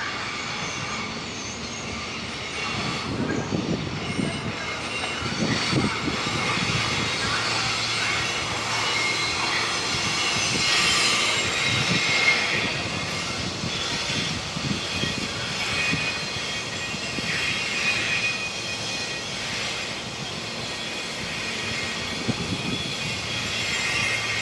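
Passenger train rolling past on the rails, steady wheel and car noise with a high-pitched squeal of steel wheels swelling and fading through the middle, and irregular low thumps.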